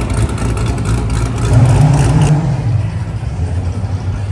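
A car engine running close by, revving up about a second and a half in and then easing back down.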